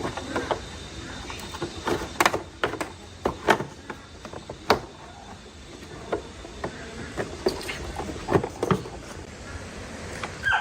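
Irregular sharp clinks and knocks of hand tools and metal parts being handled during a motorbike repair, a dozen or so strikes over a steady low background.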